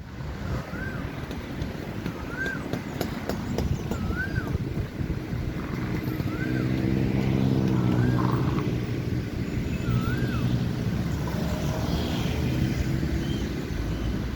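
A vehicle engine running over a steady low rumble, its hum building up from about six seconds in and easing off near the end. A short rising-and-falling chirp repeats about every second and a half, six times, through the first ten seconds, with a few light clicks early on.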